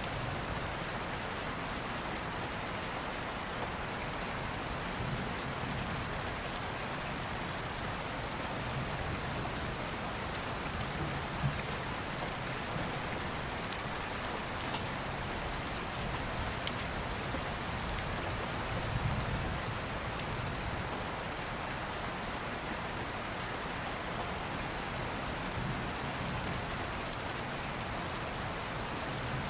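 Steady rain falling, with soft low rumbles swelling now and then and a few faint crackles from an open fire, the clearest about eleven seconds in.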